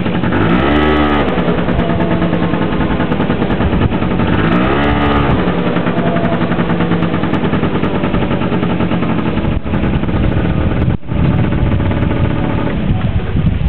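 Honda Gyro X scooter engine running during a running check, blipped up and back down twice, about a second in and again around five seconds in, and otherwise running steadily.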